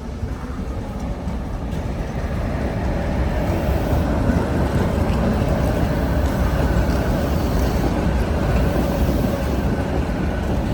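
Tatra tram running on the track, its rumble building over the first three seconds and then holding steady, with a faint steady hum.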